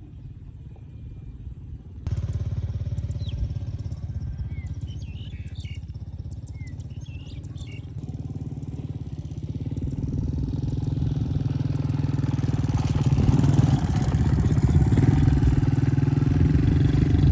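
A small engine running and growing steadily louder as it draws closer, with a few short bird chirps a few seconds in.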